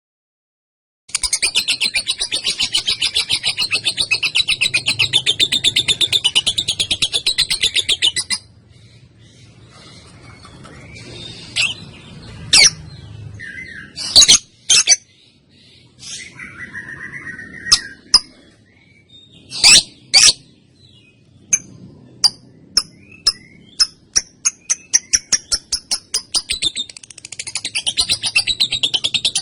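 Female lovebird chattering in a long, fast, high-pitched rattling trill that breaks off after several seconds. A quieter stretch follows with a few loud, sharp single calls, then a run of short chirps that speeds up into the rapid trill again near the end.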